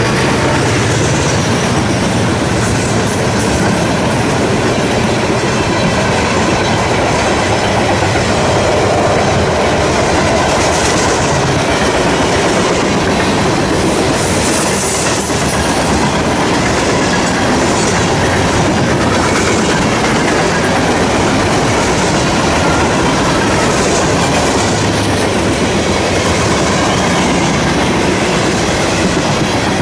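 Loaded freight cars of a garbage train rolling steadily past: the rumble and clatter of steel wheels over the rails, with faint high wheel squeals now and then.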